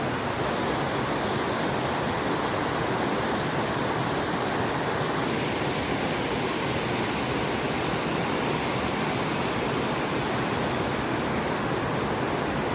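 Fast-flowing water rushing steadily, an even noise without breaks or changes.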